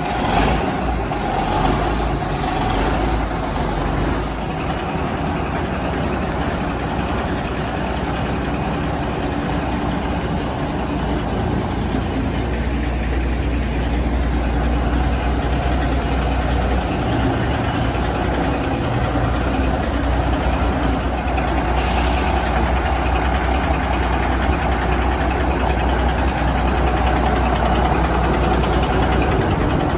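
Kenworth W900 diesel engine running steadily at idle through a freshly fitted straight-pipe exhaust. A brief hiss about 22 seconds in.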